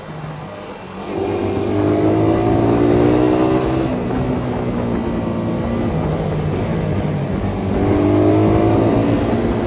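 Suzuki Satria FU 150's single-cylinder four-stroke engine through its Thai-market CBU exhaust, accelerating. It gets louder about a second in, and its pitch climbs for a few seconds. The pitch drops at a gear change about four seconds in, then climbs again near the end.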